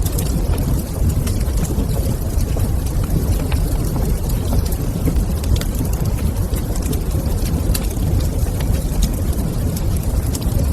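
Wood fire crackling in a stone fireplace: scattered sharp pops and crackles over a steady low rumble.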